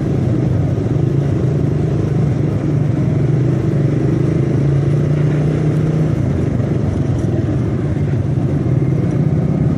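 Suzuki Satria carburettor model's 150 cc four-stroke single-cylinder engine running steadily while being ridden, its hum even throughout with road and wind noise beneath.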